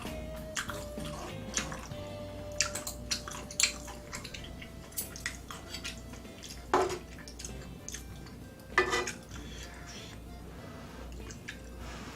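Close-up mukbang eating sounds: a run of short wet clicks and smacks from chewing, with two louder wet sounds in the second half, over quiet background music.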